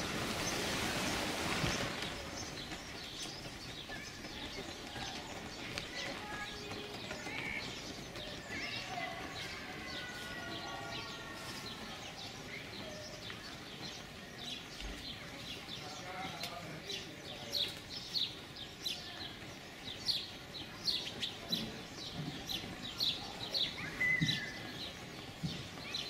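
Songbirds chirping and singing, with a few whistled phrases midway and a quick run of short, high chirps through the second half. A rush of noise fills the first couple of seconds.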